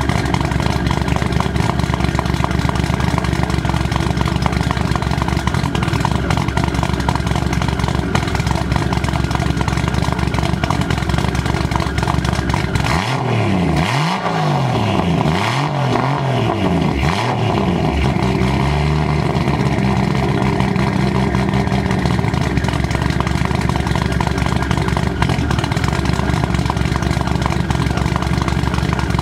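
Straight-piped Toyota 2JZ-GTE inline-six with Kelford 272/278 cams and a single Garrett GTX3582R turbo, idling at the 3-inch stainless exhaust tip after a cold start. About halfway through it is given five or six quick throttle blips, each rising and falling in pitch, then it settles back to a steady idle.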